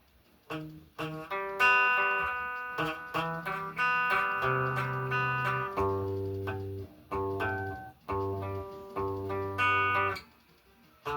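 Solo guitar playing a song: a run of picked notes and ringing chords, stopping about a second before the end.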